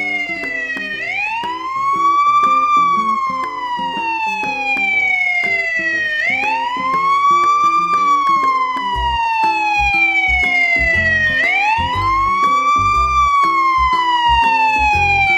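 Wailing siren, its pitch sweeping up quickly and then sliding slowly down again in cycles of about five seconds. Background music plays underneath, with a heavier low beat coming in about nine seconds in.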